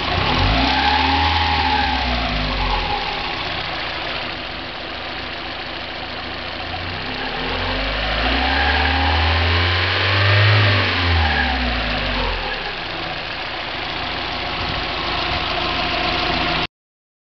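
1990 Mazda Miata's 1.6-litre four-cylinder engine idling and revved twice: a short rev and fall about half a second in, then a longer, higher rev that peaks around ten seconds in before settling back to idle. A rattle runs through it that the owner cannot place, asking whether it is lifter (hydraulic lash adjuster) tick, rod knock or a spun bearing.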